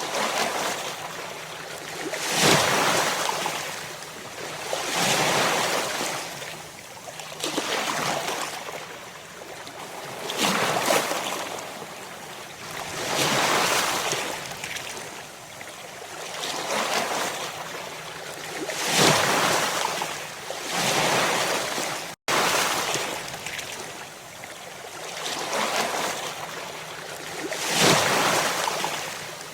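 Ocean surf: waves breaking and washing in one after another, each a rising and falling rush of noise every two to three seconds. The sound cuts out for an instant about two-thirds of the way through.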